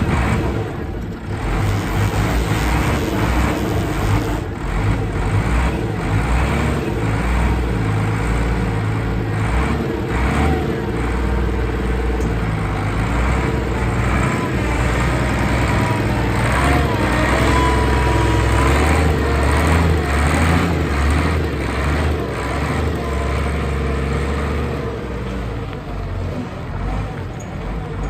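LjungbyTruck LT8 forklift running, a steady low engine drone that grows somewhat louder through the middle.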